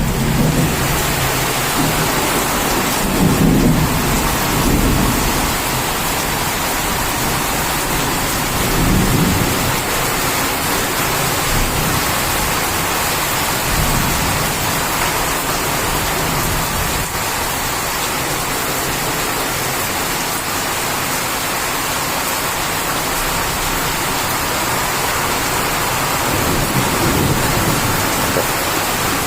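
Heavy rain falling steadily, with a few low rumbles swelling up out of it, the strongest a few seconds in and near the end.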